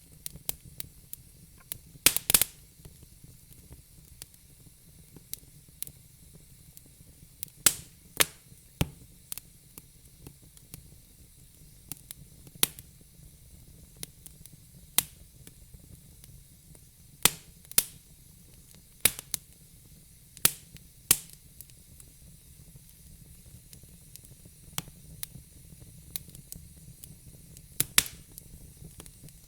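Wood fire in a fire pit crackling: irregular sharp pops over a soft steady hiss, with a quick cluster of loud pops about two seconds in.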